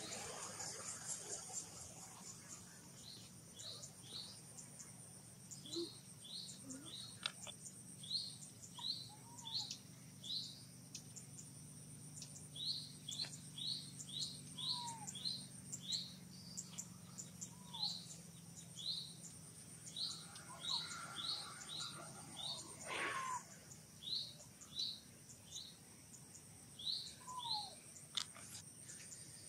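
A small bird chirping over and over, short high notes about two a second, over a steady high buzz of insects. A few fainter, lower falling calls come in now and then, and there is one louder short sound a little before the end.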